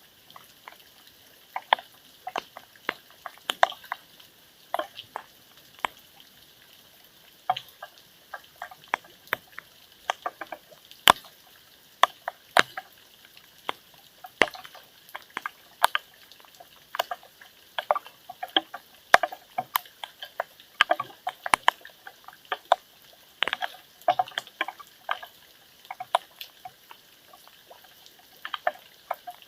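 Rainwater dripping: single drops land at irregular intervals, a few a second, each a short sharp plink over a faint steady hiss. No thunder is heard.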